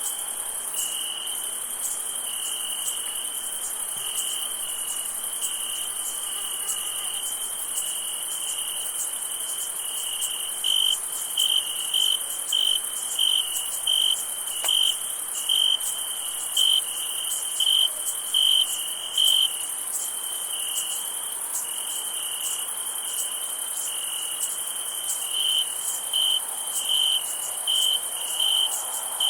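Night insects: crickets chirping in an even pulse of about one and a half chirps a second, louder in two long stretches, over a continuous high insect hiss.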